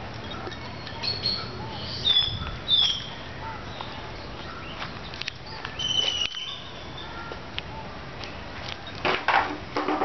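Birds calling in a garden: a few short, swooping chirps, two loud ones a couple of seconds in and another about six seconds in, over a steady outdoor hiss. A short burst of noise follows near the end.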